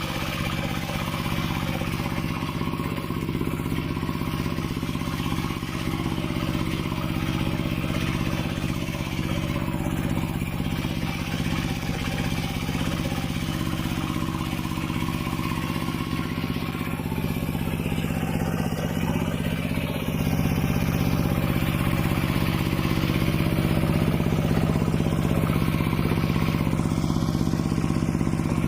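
Mini tractor engine running steadily under load, with a clattering mechanical note, getting a little louder about two-thirds of the way through.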